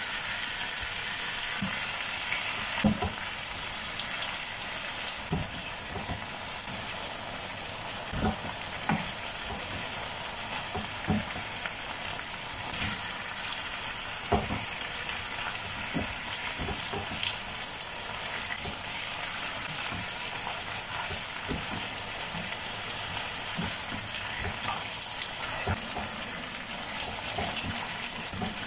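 Chicken pieces frying in a nonstick pan with a steady sizzle while a silicone spatula stirs them, knocking against the pan at irregular moments.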